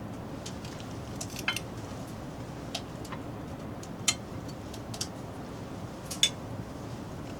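Cutlery clinking against dishes, a handful of short sharp clinks spaced irregularly, with the loudest about a second and a half in and again near the end, over a steady low background hiss.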